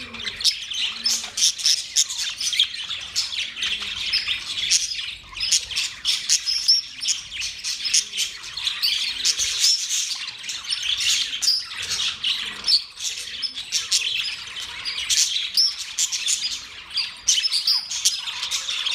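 Several young budgerigars chirping and squawking in a constant, overlapping chatter of short calls.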